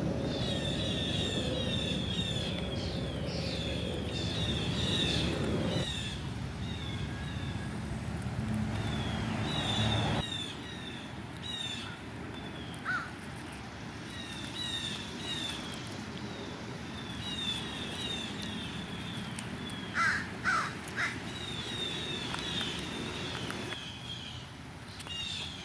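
American crows cawing, with three strong caws close together about twenty seconds in, over many short high chirps from smaller birds throughout. A low rumble underlies the first ten seconds and stops abruptly.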